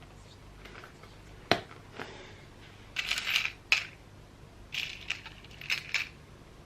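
Small handling sounds: a sharp tap, then two spells of rustling broken by sharp clicks.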